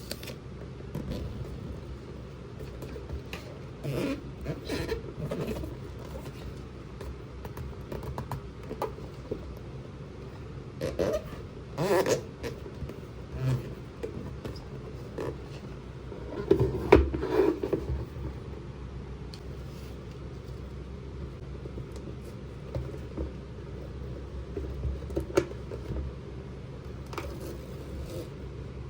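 Hands handling plastic toy pieces and packaging: scattered light clicks, taps and scrapes, with a few louder knocks, over a steady low hum.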